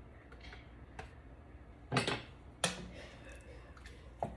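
A few sharp clanks of kitchen cookware or utensils, the two loudest close together about two seconds in, over a low steady hum.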